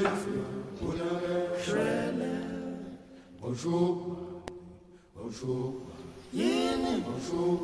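Vocal music: voices singing a slow chant-like melody, with long held notes and gliding pitches and a brief lull in the middle.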